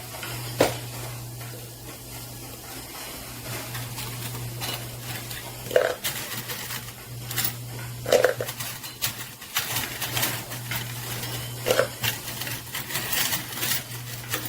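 Quarters clinking and clattering as they are handled and gathered from a coin pusher machine, in scattered clinks that come thicker near the end, over a steady low hum.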